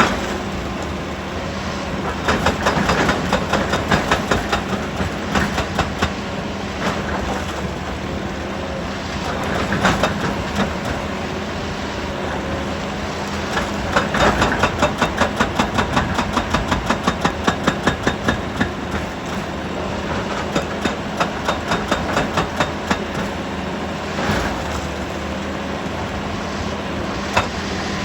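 Heavy earthmoving machinery running steadily with a constant engine drone. Twice it breaks into a rapid run of clattering knocks, a few seconds each, about two seconds in and again from about fourteen seconds in. Scattered single knocks fall between the two runs.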